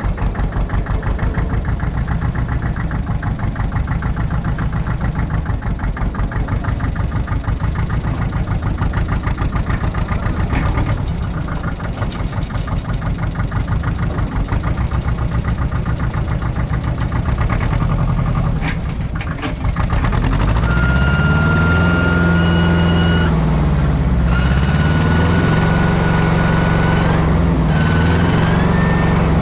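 Allis Chalmers 5020 tractor's diesel engine idling with a steady, even pulse. About 20 seconds in it gets louder and its pitch swings up and down as the engine speed changes, and a steady high whine joins in and steps up in pitch near the end.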